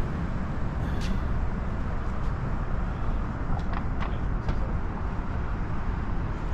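Steady low outdoor rumble, strongest in the bass, with a few faint ticks about a second in and again near the middle.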